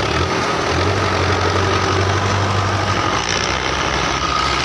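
Belarus 510 tractors' four-cylinder diesel engines running steadily, with a low drone that is strongest from about one to three seconds in.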